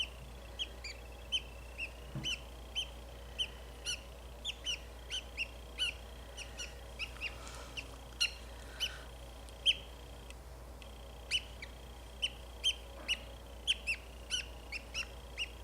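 Budgie cheeping in short, high chirps, about two a second at irregular intervals, over a faint steady high whine.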